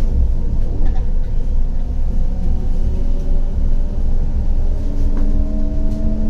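CAF Urbos 100 tram's electric traction drive whining as the tram accelerates: a set of tones comes in about two seconds in and climbs slowly in pitch, over a steady low rumble from the running gear.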